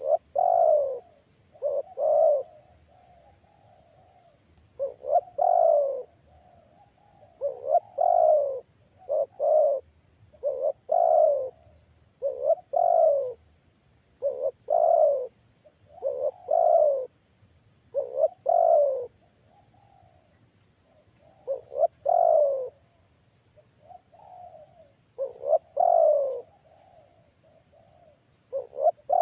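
Spotted dove (tekukur) cooing loudly and repeatedly: short phrases of a few low coos, about one phrase every two seconds.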